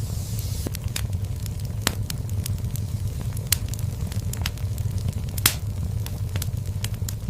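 Wood fire burning in a fireplace: a steady low rumble of flame with irregular sharp crackles and pops from the burning logs, the loudest pop about five and a half seconds in.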